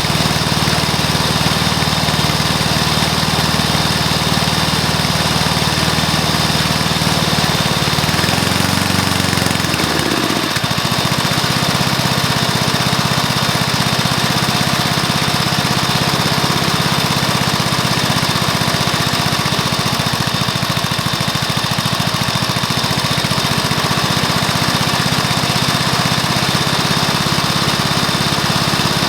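Freshly rebuilt Briggs & Stratton single-cylinder lawnmower engine, with new piston, rings and valves, running steadily. About eight seconds in it speeds up briefly, then settles back to a slower, steady speed.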